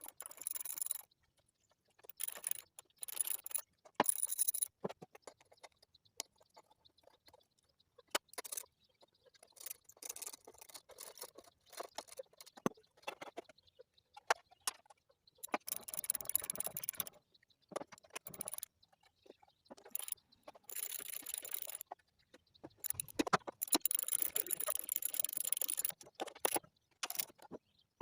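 Intermittent clinks, scrapes and rattles of small metal engine parts and hand tools being handled and fitted on a small lawnmower engine, in irregular bursts with short quiet gaps.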